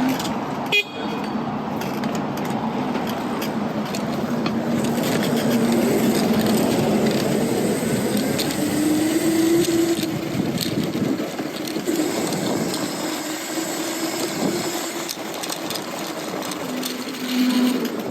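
Street riding noise on an electric bike in city traffic: steady road and wind noise with a held humming tone through much of it and a sharp click about a second in.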